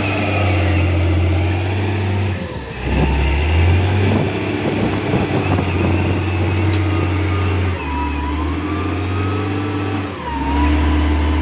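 A loader's diesel engine working under changing load, its speed stepping up and down several times. There is a rattling clatter from about three to seven seconds in, and faint gliding whines later on.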